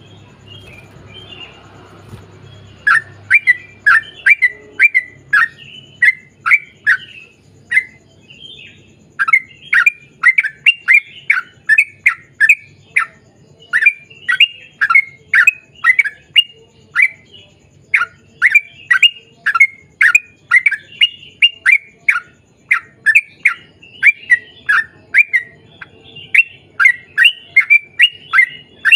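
Yellow-vented bulbul (trucukan) singing a long, rapid run of short, bubbly chirping notes, about two a second. The song starts about three seconds in and breaks briefly near eight seconds.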